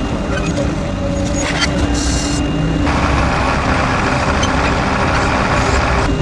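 Heavy vehicle's engine running steadily, with a short burst of hiss about two seconds in and a longer stretch of hissing from about halfway to near the end.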